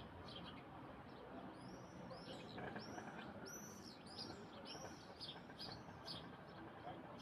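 Small songbird chirping, a quick run of short, high arched notes bunched in the middle, faint against a steady low background noise.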